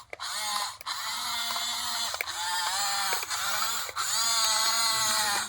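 Small electric gear motor of a toy RC bulldozer whirring in several short runs. Each run starts with a quick rising whine and is broken by brief pauses, with a ratcheting gear sound.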